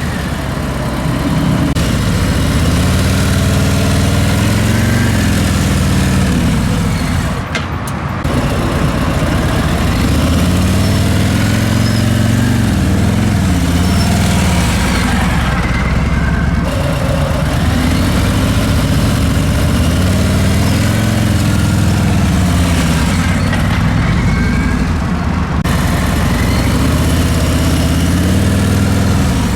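Harley-Davidson V-twin motorcycle engine running at low speed, its revs rising and falling again and again as the throttle is worked through slow-speed turns.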